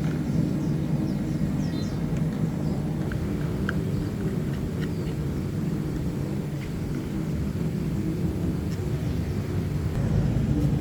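A steady low mechanical rumble, like an engine running, with a few faint high chirps.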